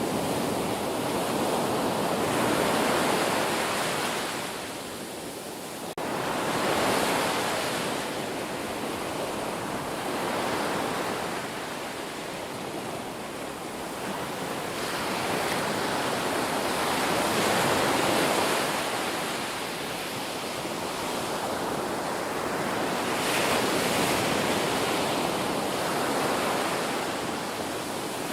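Ocean surf: waves breaking and washing up the shore in a steady rush that swells and fades every four to six seconds, with an abrupt jump in level about six seconds in.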